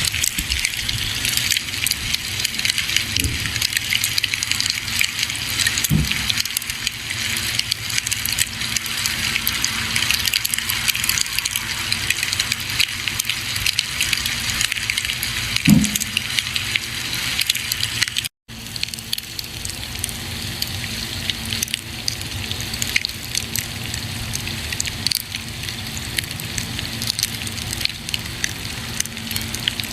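A campfire burning, with a steady hiss and dense crackling and a couple of deeper pops about six and sixteen seconds in. The sound cuts out completely for an instant just past the middle, then carries on.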